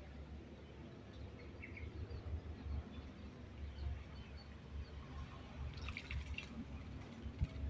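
A white-rumped shama bathing: water dripping and splashing, over a steady low rumble, with a short flurry of splashes about six seconds in.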